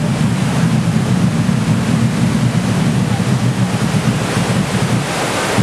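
Loud, steady rush of water from the earthquake set's special-effects flood, over a deep rumble.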